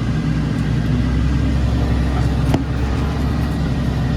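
Tractor engine running steadily under load, heard from inside the cab while pulling a seed drill, with a single sharp click about two and a half seconds in.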